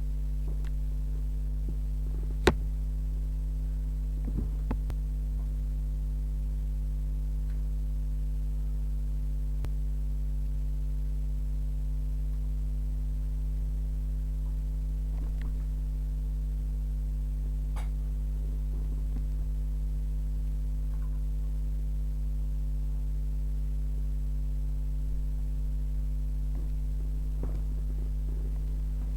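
Steady electrical mains hum on the recording, with a few faint clicks and knocks now and then.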